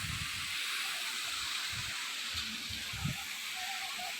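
Waterfall rushing: a steady hiss of falling water, with a few low thumps at the start, about two seconds in and about three seconds in.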